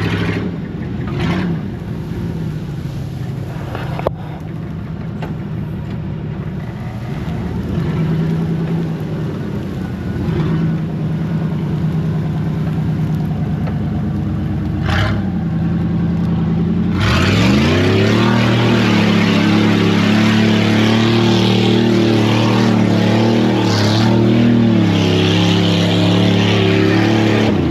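Mud truck engine running at low revs, then revved up sharply about two thirds of the way in and held at high revs.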